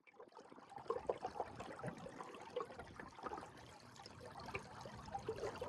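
Faint, irregular lapping and trickling of lake water.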